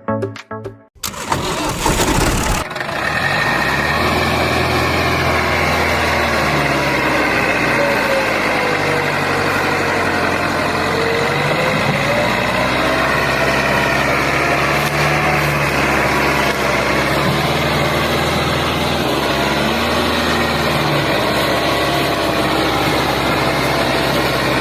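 Mini tractor's engine starting about a second in, then running steadily, its pitch drifting up and down a little.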